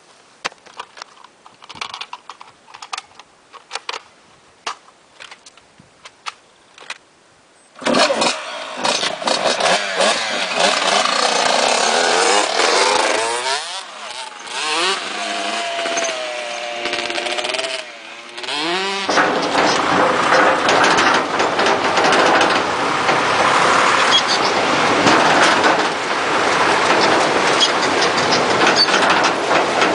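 A few faint clicks, then a tractor engine starts suddenly about eight seconds in. It revs up and down for several seconds, then runs loud and steady.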